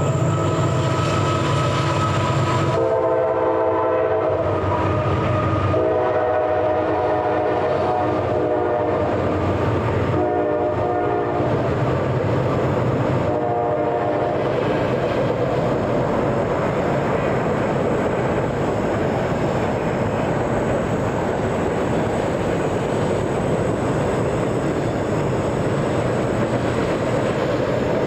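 Approaching train locomotive sounding its air horn in a series of blasts, four long and one short, over its engine. Then the steady rush and clatter of the train passing on the rails.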